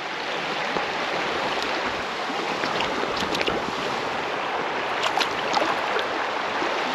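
Creek water flowing steadily over rocks, a constant rushing hiss, with a few faint short clicks about three and five seconds in.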